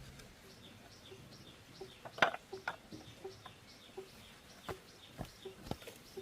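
A bird chirping over and over, about three short falling chirps a second, with a few sharp knocks, the loudest about two seconds in.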